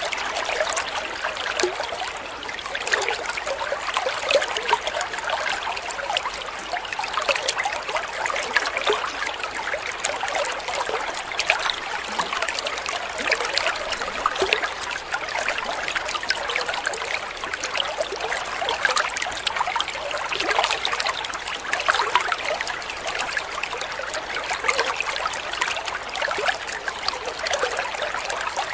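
Water trickling and babbling in a small stream, a steady run of many small splashes and gurgles.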